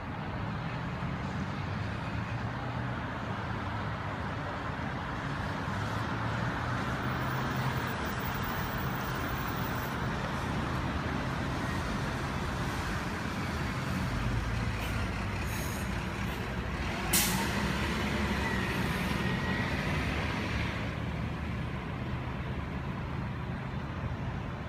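Boeing 777 airliner's jet engines running steadily during its landing, a continuous rushing noise with a low wavering hum. There is one sharp crack about seventeen seconds in, followed by a faint high whine for a few seconds.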